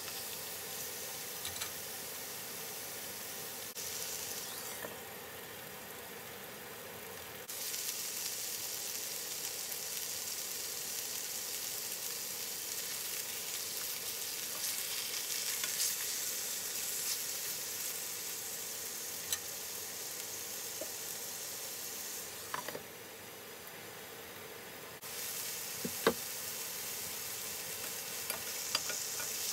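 Chicken breasts sizzling as they fry in a hot pan, a steady hiss that thins out briefly twice, with a few light clicks of metal tongs against the pan.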